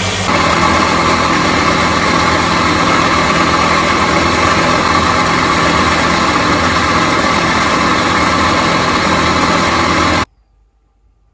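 A power tool's electric motor running steadily, louder from about a third of a second in as it takes on more grinding-like noise, then cutting off suddenly near the end.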